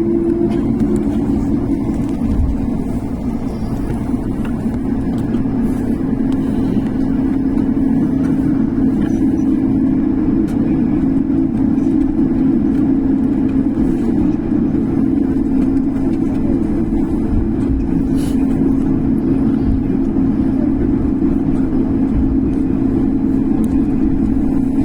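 Jet airliner engines running, a steady loud drone with a hum over a low rumble; the hum settles slightly lower in pitch in the first second or two.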